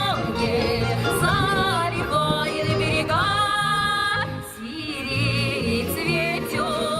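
A woman singing a Russian song with held, wavering notes over instrumental accompaniment with a repeating bass line.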